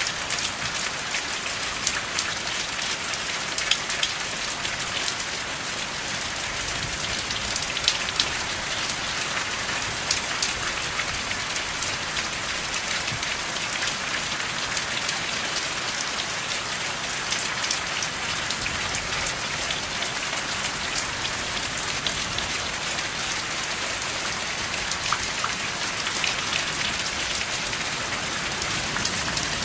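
Steady heavy rain: a constant hiss of falling rain, with many sharp individual drop hits and no thunder.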